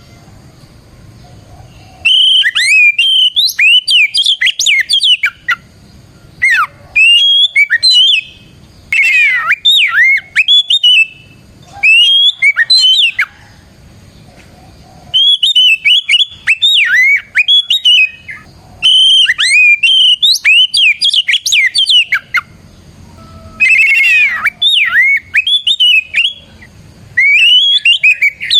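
Oriental magpie-robin (kacer) singing loudly in full song. It sings phrases of rapid whistled notes that slide up and down, about eight bursts of two to three seconds each, separated by short pauses.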